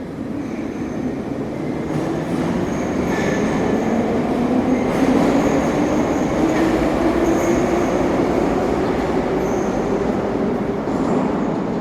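Train running on rails, its rumble growing louder over the first few seconds and then holding steady, with high wheel squeal coming and going.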